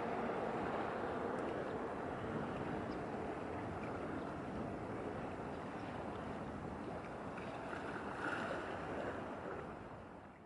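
Steady wind and water noise with a passing small cargo ship, no distinct engine tone standing out; it fades out near the end.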